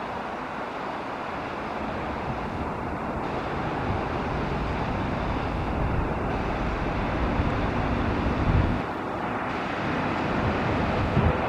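ChS7 electric locomotive hauling a passenger train on approach: a steady running noise that grows slowly louder as it nears. Wind buffets the microphone briefly twice in the second half.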